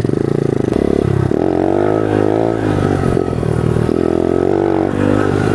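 Pit bike engine revving as the bike accelerates, its pitch climbing and dropping a few times.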